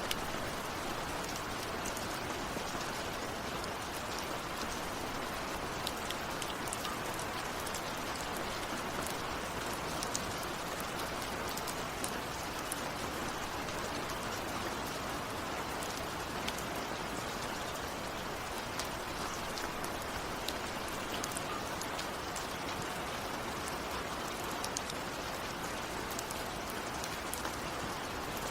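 Steady rainfall, with individual drops ticking sharply on a nearby surface scattered through it.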